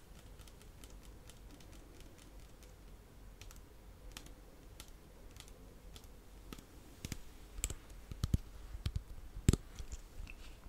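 Scattered soft clicks and taps close to the microphone, sparse at first and busier over the last few seconds, with a few louder low thumps near the end.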